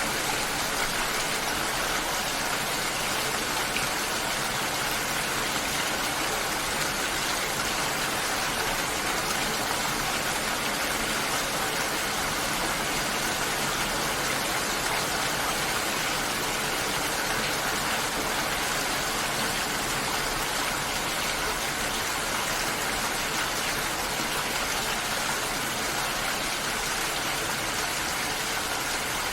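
Steady, even hiss of falling or running water, unchanging throughout.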